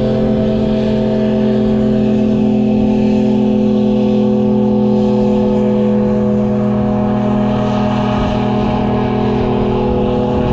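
A loud, steady motor hum that holds one unchanging pitch.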